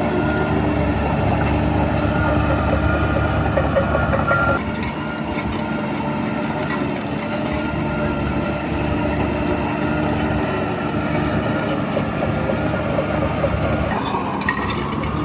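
Heavy diesel engine of earthmoving machinery running steadily and loudly. A high whine over it stops about four and a half seconds in, and a new mid-pitched sound swells in near the end.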